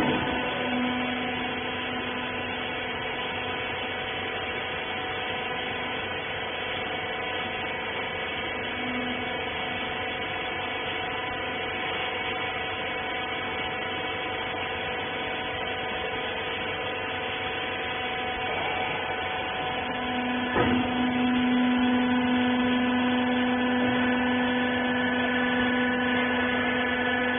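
Electric motor and hydraulic pump of a rag baler running with a steady hum. There is a click at the start and another about 20 seconds in, after which the hum grows louder.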